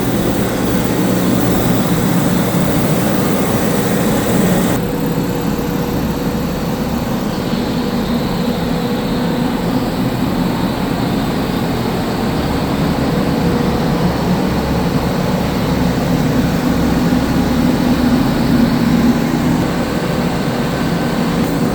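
Steady, loud machine drone with a constant low hum, typical of shop ventilation or compressor running; a high hiss over it cuts off abruptly about five seconds in.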